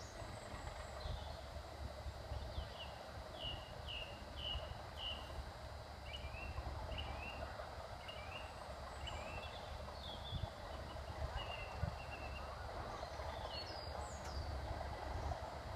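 A small bird singing a run of short descending chirps, about two a second, for around ten seconds, over the steady low rumble of the distant Class 37 diesel locomotives approaching.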